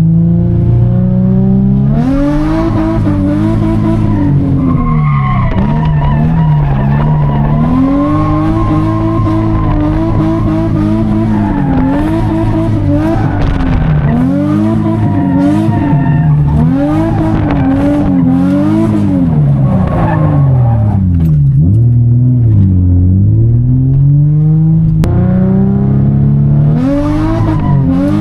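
Infiniti G35's V6 engine revving up and down over and over during drifting, with tyres squealing and skidding. The exhaust is loud and raspy.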